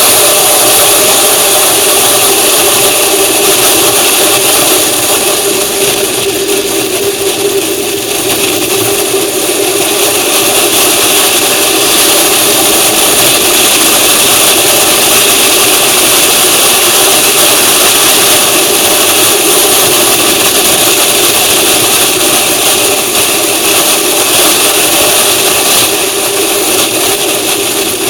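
A vehicle under way, its engine running steadily with a constant rush of road and wind noise.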